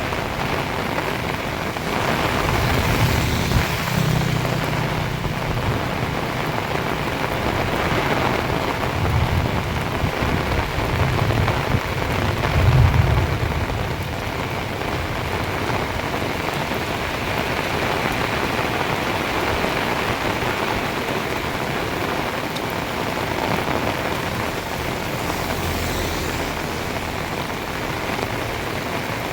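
Heavy rain pouring down in a steady, dense hiss. Low rumbles swell a few seconds in and again around the middle.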